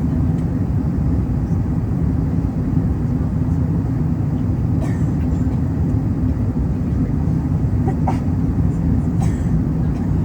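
Steady low rumble of an Airbus A380's four jet engines during its landing.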